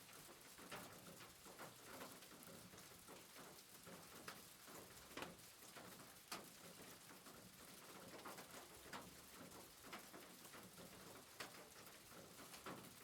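Faint soft rain: an even hiss with scattered drops ticking.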